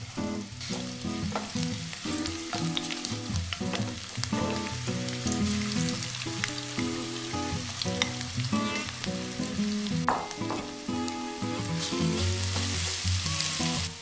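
Sliced and minced garlic sizzling in hot olive oil in a frying pan, with scattered crackles and pops; the sizzle grows louder near the end.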